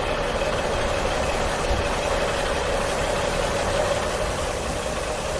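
Truck engine running steadily, a continuous engine noise with a low rumble.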